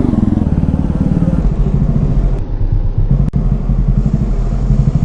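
Jawa 42 motorcycle's single-cylinder engine running steadily at low speed through an aftermarket silencer, with one short click about three seconds in.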